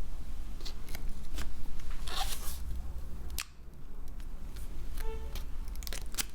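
Small sharp clicks and short scraping sounds of hand tools handling small phone parts, with a brief faint tone about five seconds in, over a steady low hum.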